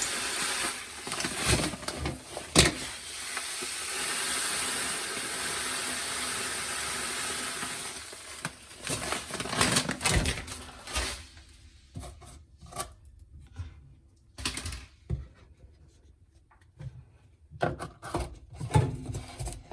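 Granular dishwasher salt poured into a dishwasher's salt reservoir, a steady rushing hiss for about eight seconds. Then it turns quieter, with scattered clicks and knocks of handling.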